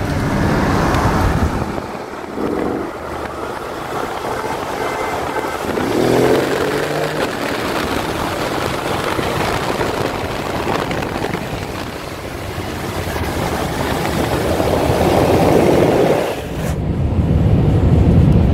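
Twin-turbo V8 sedans racing at speed, heard from inside one car's cabin: engine and road-wind noise, the engine pitch rising under hard acceleration several times. Near the end the hiss drops away suddenly, leaving a heavy low rumble.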